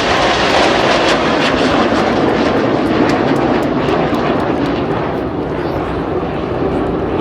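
Jet noise from BAE Hawk T1 aerobatic jets flying low past, a loud, even rushing sound that slowly fades as they fly away.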